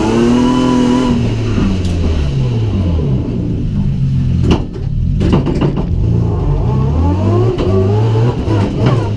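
BMW 323ti's straight-six engine heard from inside the stripped cabin as the car slows from speed: the revs rise briefly, then fall away in steps, with two sharp knocks in the middle and the revs climbing again near the end.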